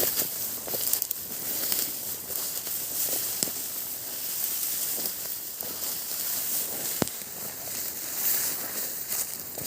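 Close rustling and crackling with scattered small clicks and one sharper click about seven seconds in.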